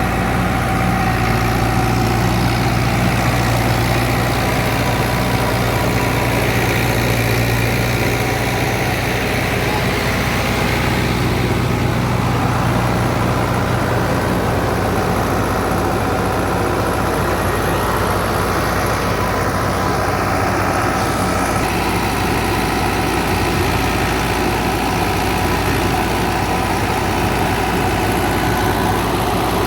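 Fiat 640 tractor's diesel engine running steadily under load while powering a wheat thresher, the thresher's drum and fan running with it as a loud, continuous machine noise.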